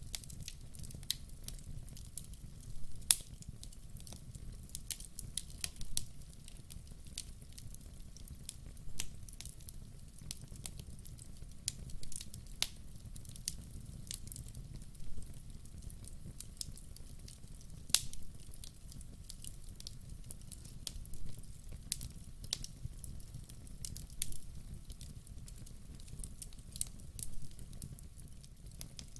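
Wood fire burning logs: a steady low rumble of flame with irregular crackles and sharp pops of the wood, a few pops standing out louder.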